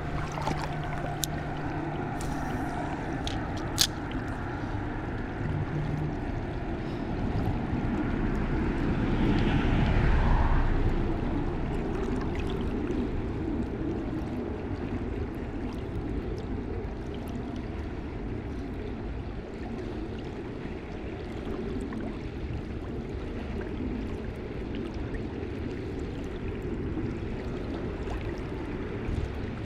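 Shallow river water flowing steadily, a low rushing and gurgling that swells for a few seconds around ten seconds in. A few faint sharp clicks in the first few seconds.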